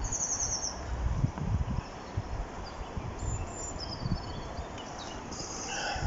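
Small birds chirping in short, rapid high-pitched trills, three or four times, over low rumbling wind noise on the microphone.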